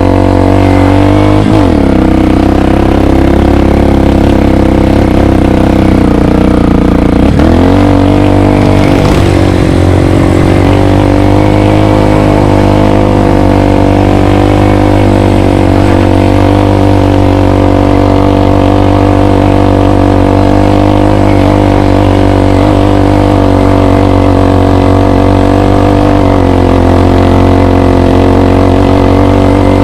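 Trail motorcycle engine running loud and steady during a ride, its pitch dropping sharply twice early on, about a second and a half in and again around seven seconds, then holding an even note.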